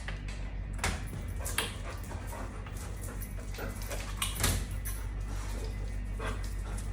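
Dog whining and whimpering impatiently, eager to go out, with a few sharp clicks or knocks in between.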